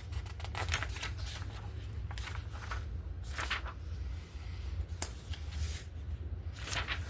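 Glossy magazine pages being turned and handled, giving several brief papery swishes and a sharp tick about five seconds in, over a steady low hum.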